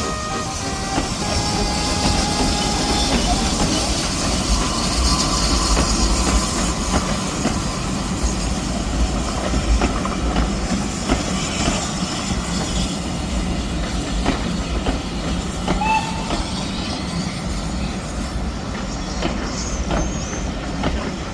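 Kerr Stuart steam tank locomotive and its carriages passing: a steady rumble with wheels clicking over the rail joints, and a few short high squeaks near the end.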